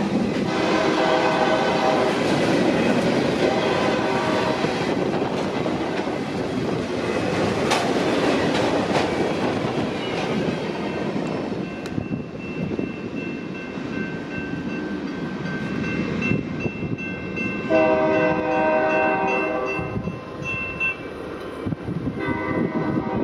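Nathan K3LA five-chime air horn on a BNSF freight locomotive sounding long blasts over the rumble and clatter of the train rolling past. The horn stops about five seconds in, leaving the train noise, then sounds again about eighteen seconds in and once more near the end.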